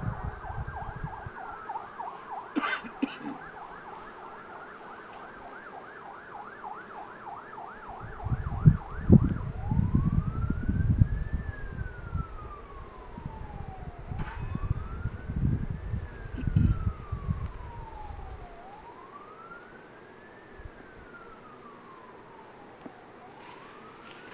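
An emergency vehicle siren sounds a rapid yelp, then about nine seconds in switches to a slow wail that rises and falls about every three seconds. A low rumbling noise runs under the middle part.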